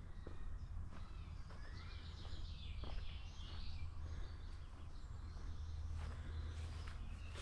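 Small birds chirping and singing, busiest about one to four seconds in, over a steady low rumble.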